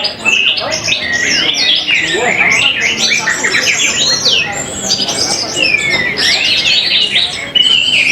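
Several caged orange-headed thrushes (anis merah) singing against each other at once: a dense, unbroken tangle of rapid whistled phrases, trills and gliding notes, with a low murmur of voices beneath.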